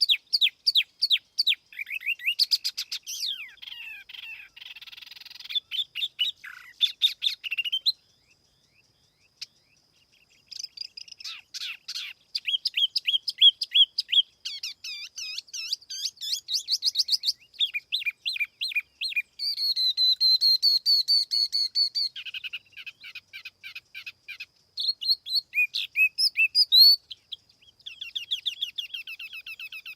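Tiểu mi songbird singing a lively, varied song of rapid chirps, trills and clear whistled phrases, pausing briefly about eight seconds in. It is a clean lure recording used to draw in other birds of its kind.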